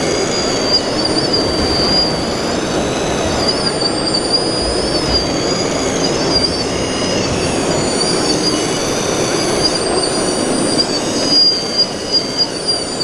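High-pitched whine of the small electric drive motors and gearboxes in 1/14-scale RC model trucks and machines, rising and falling in pitch as they speed up and slow down, over a steady din of crowd and hall noise.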